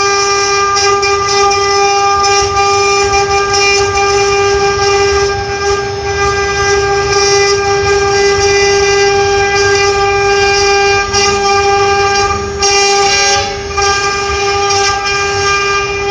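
Six-head CNC router carving, its spindles giving a steady whine with overtones over the rasp of the cutting.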